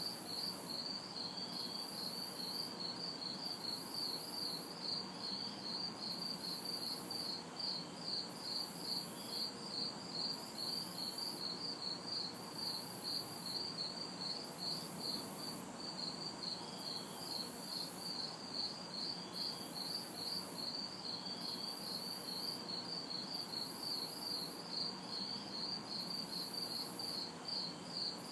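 Night chorus of crickets and cicadas: crickets chirping in a steady pulse of about three chirps a second, with a higher, thin insect buzz switching on and off about once a second. A low, even hum of distant city traffic lies underneath.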